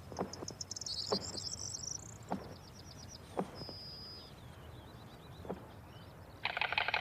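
White storks clattering their bills: a fast, even run of dry wooden clacks starts near the end, the pair's bill-clapping display. Before it come a few single sharp knocks, with small birds chirping thinly in the background.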